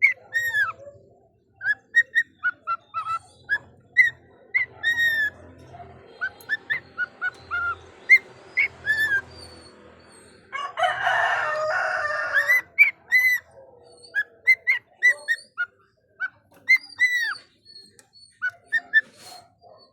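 Pet cockatiels chirping and whistling in many short, arching calls, with a louder harsh stretch of about two seconds around eleven seconds in.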